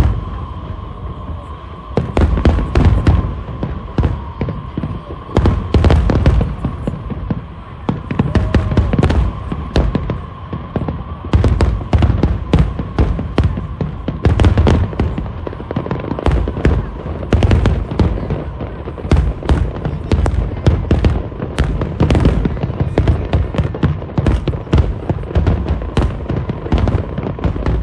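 Aerial fireworks shells bursting in a continuous barrage: many sharp bangs and deep booms in quick succession, with crackling between them.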